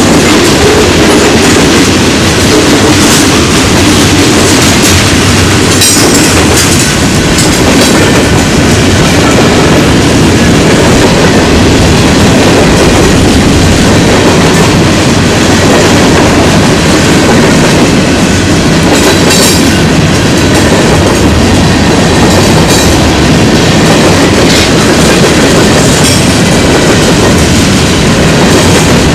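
Freight train's covered hopper and tank cars rolling past close by: a steady, loud rumble of steel wheels on rail with clickety-clack over the rail joints. A few brief high-pitched squeals break in now and then.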